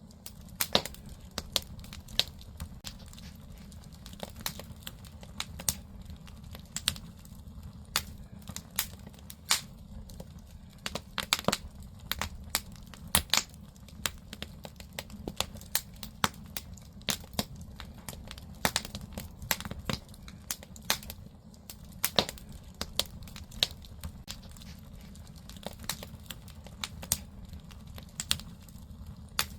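Firewood burning in a traditional Korean wood-fired fire hole (agungi), crackling and popping with irregular sharp snaps over a steady low rumble of the fire.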